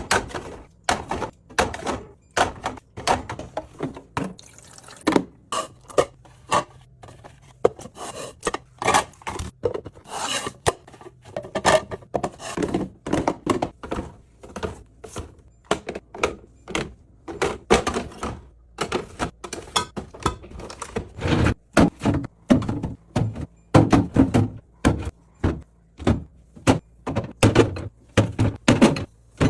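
Refrigerator being restocked: a quick, irregular run of thunks, clacks and clinks, several a second, as food containers are set down on the shelves and in the bins.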